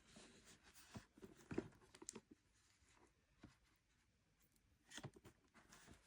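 Faint taps and light scratches of fingers handling a Pokémon Elite Trainer Box's cardboard and wrapping, a small cluster in the first two seconds and another near the end, with a hush in between.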